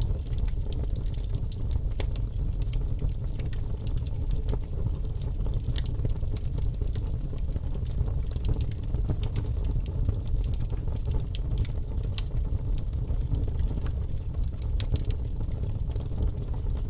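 Wood fire burning in a fireplace: a steady low sound from the flames, with frequent small crackles and pops from the burning logs scattered irregularly throughout.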